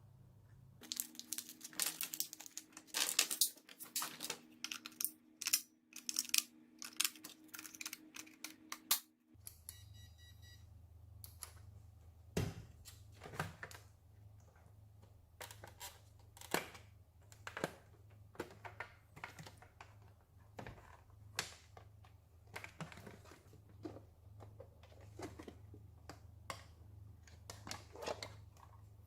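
Plastic crinkling and tearing with quick clicks and taps of handling, dense for the first nine seconds and then sparser single clicks, over a steady low hum that drops in pitch about nine seconds in.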